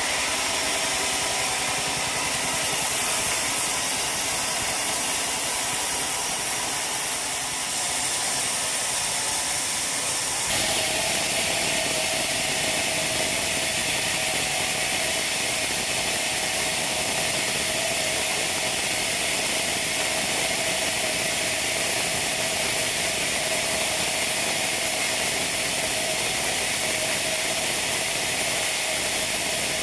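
Sawmill machinery running with a steady mechanical noise and hiss; the sound changes abruptly about ten seconds in, then carries a steady hum.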